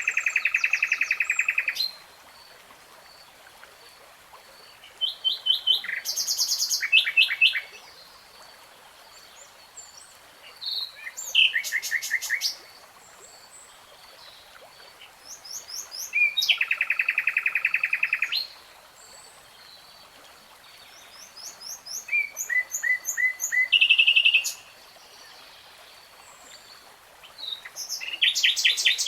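Nightingale singing in short phrases of rapid repeated notes and trills, each a couple of seconds long and separated by pauses of a few seconds, with the pitch changing from phrase to phrase. A faint high ticking runs steadily underneath.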